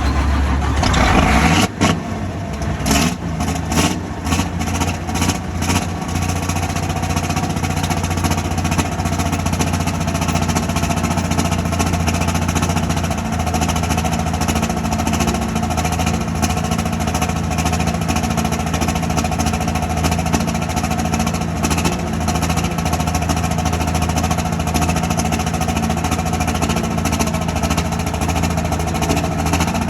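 John Deere pulling tractor's engine running at a steady idle while warming up. In the first few seconds it gives a run of sharp cracks, then settles into an even, loud idle.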